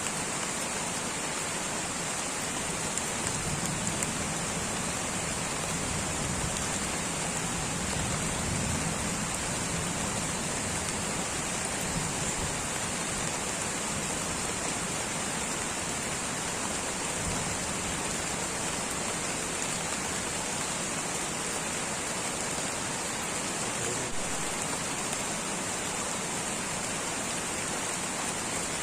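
Light, steady rain falling in a tropical rainforest, a continuous even patter.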